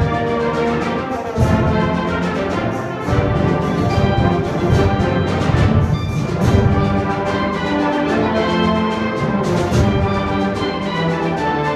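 Concert wind ensemble playing loudly, with full brass and timpani. A heavy low-brass and percussion entry comes in about a second and a half in.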